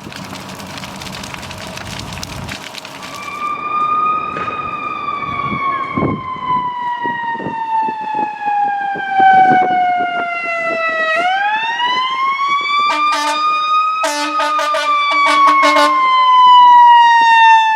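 Fire truck responding with a Federal EQ2B mechanical siren that slowly winds down in pitch, winds back up, then coasts down again. Short repeated air horn blasts come over it near the end. Engine and road noise are heard before the siren starts, a few seconds in.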